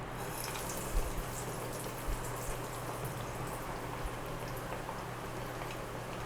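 Hot oil sizzling and crackling as whole green-gram (pesara) batter fritters deep-fry; the crackle sets in sharply at the start. Two soft knocks about one and two seconds in.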